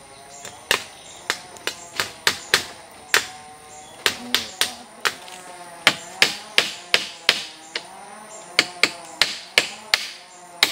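Repeated sharp strikes on wood, irregular at about two to three a second, each ringing off briefly, as a tool is worked on cut wood at camp. A wavering tune plays underneath.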